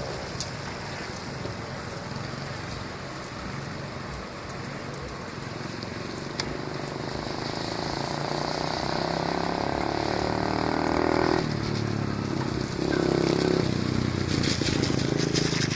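Dirt bike engine running, growing louder from about halfway through, dropping off suddenly about two-thirds of the way in and picking up again a second later.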